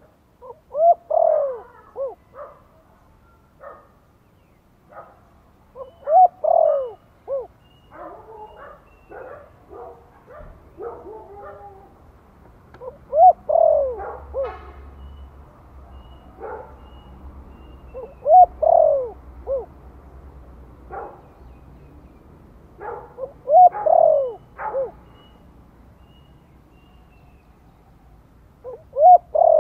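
Spotted dove cooing in the 'Thổ' voice style, a decoy call for stirring up other doves: a multi-note coo phrase repeated about every five to six seconds.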